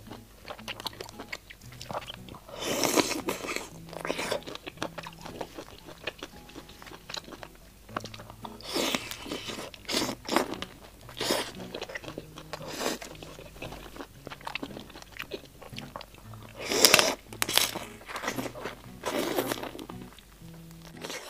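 Close-miked eating: biting into and chewing the meat of a large black tiger prawn in sauce, with wet, crunchy chews coming at irregular intervals and about six louder bites. Faint low background music underneath.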